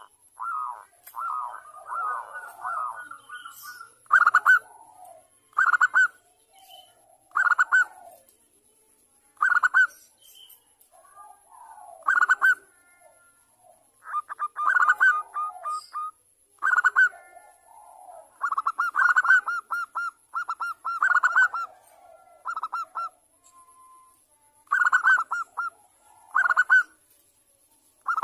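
Zebra doves (perkutut) cooing: short bursts of rapid, stuttering coo notes repeated every second or two, with fainter, lower calls between them.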